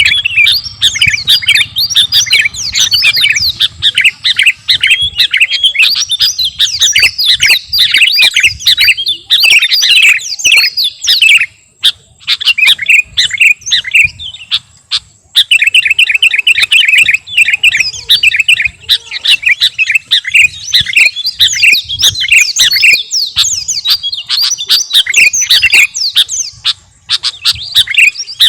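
Sooty-headed bulbul (kutilang) singing hard, a dense run of rapid high chirps and quick trills. It thins out for a few seconds about twelve seconds in, then picks up again at full pace.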